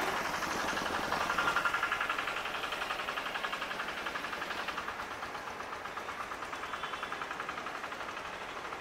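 Train locomotive engine running with a fast, even throb, gradually getting quieter.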